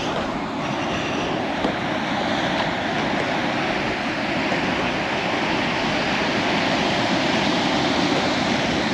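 Steady noise of ocean surf and wind.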